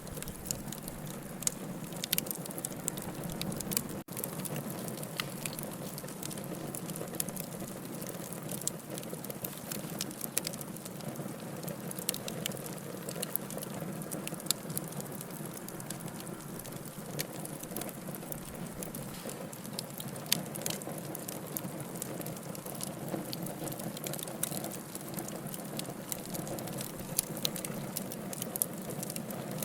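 Wood fire in a fireplace crackling over a low steady rush, with frequent sharp pops, a few much louder than the rest.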